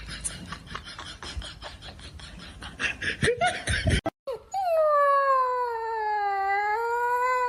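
A dog howling: one long, held, wavering call that falls away at the end. Before it come a few seconds of rapid clicking or tapping and a short rising call, then an abrupt cut.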